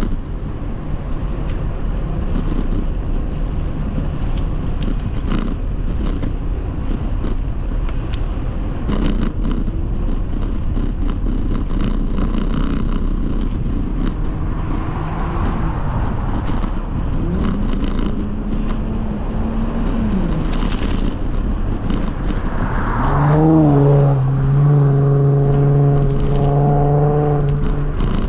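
Motor vehicle and road noise with a steady low rumble, likely wind on the microphone. About 23 s in, a loud pitched engine or horn-like tone comes in and holds for several seconds.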